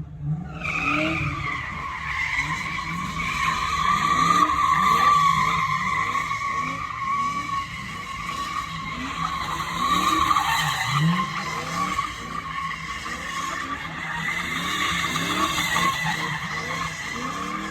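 A car spinning donuts or doing a burnout: tires squeal continuously, starting suddenly about half a second in, while the engine revs up again and again.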